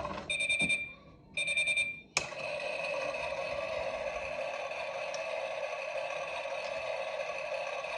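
Klein Miele toy washing machine giving two short electronic beeps, then a click a couple of seconds in, after which its steady running sound starts.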